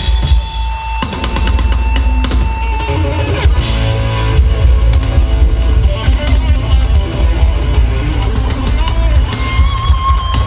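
Live rock band playing loudly: drum kit with bass drum, electric guitar and electric bass, with no singing.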